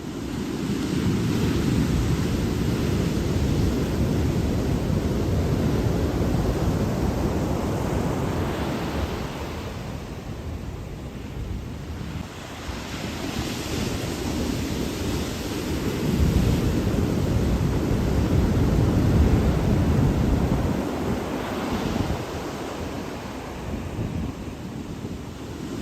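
Ocean surf breaking on a beach, with wind rumbling on the microphone. The sound rises and falls in long surges several seconds apart.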